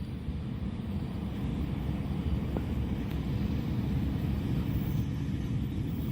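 Low, steady rumble of an approaching train, growing gradually louder.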